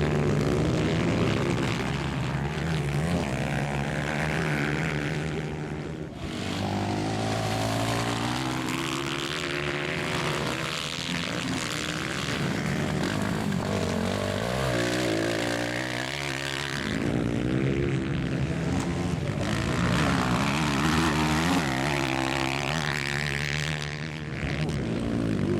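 Several 160cc four-stroke racing motorcycles running on a dirt track. The engines rev up and down, rising and falling in pitch as the riders accelerate and back off, with a brief lull about six seconds in.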